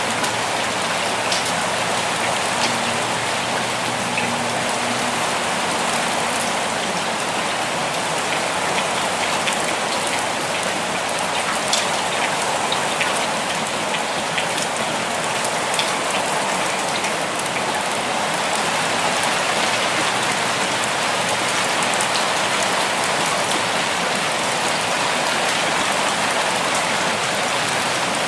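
Steady rainfall pattering on a surface, an even hiss with scattered individual drops.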